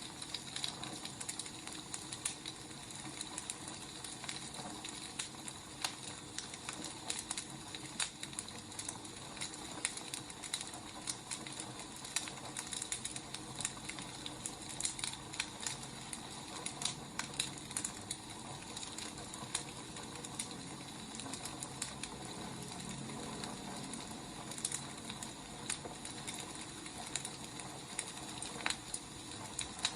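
Burning firewood crackling: a steady hiss with frequent, irregular sharp pops.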